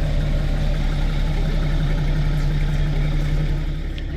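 Car engine running steadily with a low, even hum that eases off slightly near the end.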